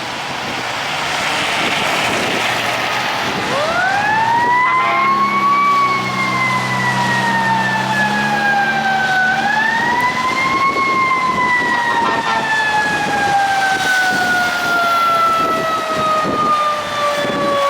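Fire engine's mechanical siren winding up quickly a few seconds in, coasting slowly down in pitch, winding up again about ten seconds in and then falling slowly away. A low steady drone sits under the first wind-up.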